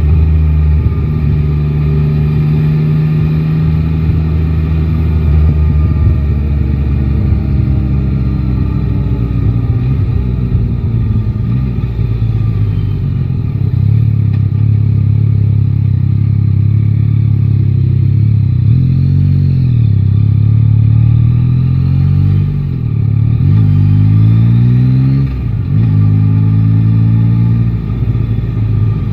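Yamaha Tracer 9 GT's 890 cc inline-three engine running under way. Its pitch holds, then falls slowly over several seconds, and in the last third rises and drops sharply several times as the bike accelerates through the gears.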